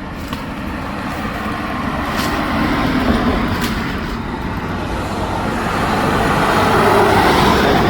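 Road traffic: a motor vehicle going past close by, its engine and tyre noise swelling twice, loudest near the end, then cutting off abruptly.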